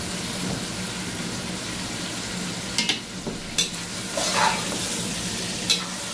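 Chicken, tomatoes and yogurt sizzling and frying in a pot while a slotted metal spoon stirs them. The spoon knocks and scrapes the pot a few times around the middle and near the end.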